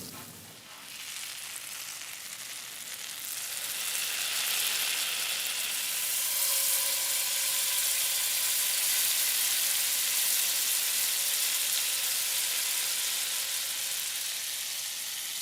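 Hot oil sizzling in a pot as a curry is cooked. The sizzle swells about three seconds in and eases a little near the end.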